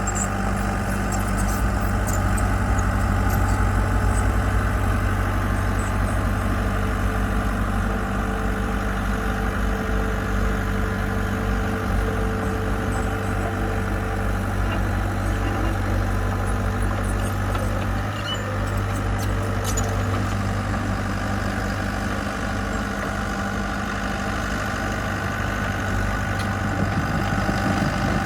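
Diesel engine of heavy construction machinery running steadily at an even speed.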